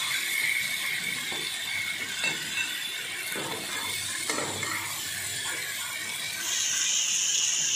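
Onion and ground ginger-garlic masala sizzling in hot oil in a non-stick kadhai while it is stirred, the stirring clinking and scraping against the pan about once a second. The masala is being fried until the oil separates from it. A higher, steadier hiss comes in near the end.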